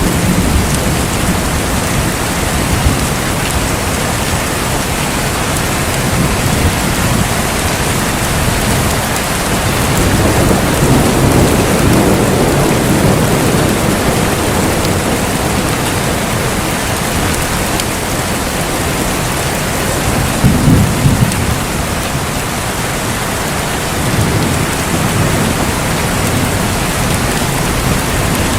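Steady heavy rain with rolling thunder: a low rumble swells from about ten seconds in, and a louder, sharper clap of thunder comes about twenty seconds in.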